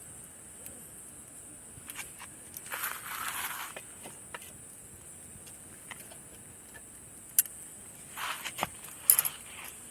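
Steady high insect chirring over a campfire, with scattered sharp pops and a few short rustling bursts, the loudest about three seconds in and near the end.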